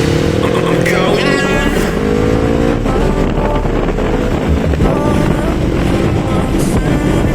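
Motorcycle engine accelerating, its pitch rising steadily over the first three seconds, then running on under road and wind noise.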